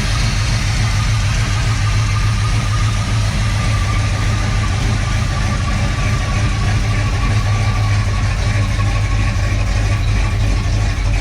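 Chevy Nova's small-block V8 idling steadily after a cold start, with no revving.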